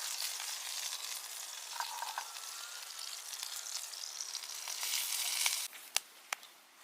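Meat sizzling as it cooks, a steady hiss that cuts off suddenly about two-thirds of the way through, followed by two sharp clicks.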